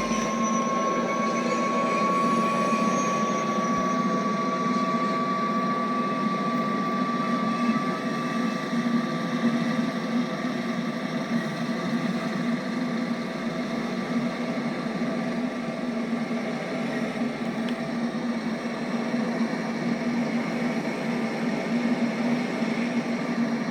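A train passing through at speed: a steady rolling rumble of wheels on rail that lasts over twenty seconds, with a thin high whine over the first several seconds.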